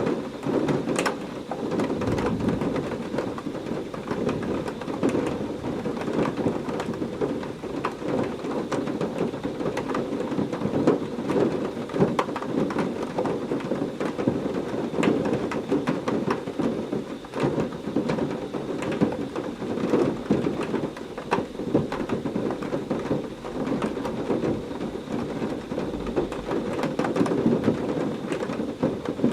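Heavy rain falling steadily, thick with close drop patter, with low thunder rumbling through it, most plainly a couple of seconds in and again near the end.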